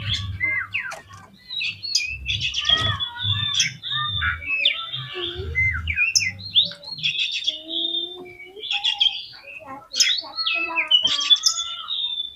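Oriental magpie-robin (kacer) singing a rapid, varied song of whistles, gliding notes and chirps, with a few brief pauses. A low rumble sits under the song for about the first half.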